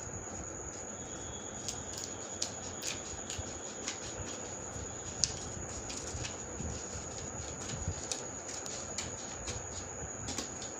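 Scissors cutting folded paper: irregular short snips and paper clicks, roughly one a second, the sharpest about five seconds in, over a steady hiss and a faint high whine.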